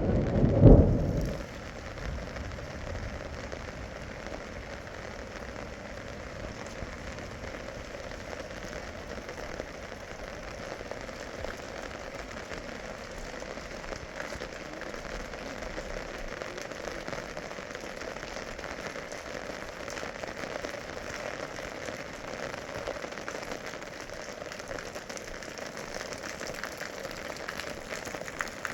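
Heavy rain falling steadily, an even hiss. There is a loud low thump or rumble in the first second or so.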